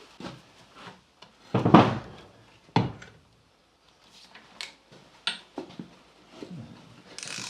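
Metal parts and tools being handled during brake back plate assembly on an axle: a heavy clunk about one and a half seconds in, another knock just under a second later, then lighter scattered clinks and clicks.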